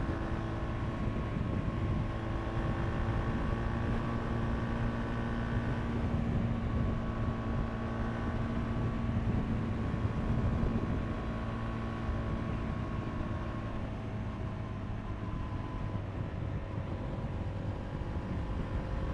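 2022 KTM RC390's single-cylinder engine running at a steady cruise under road and wind rush, heard from the rider's helmet microphone.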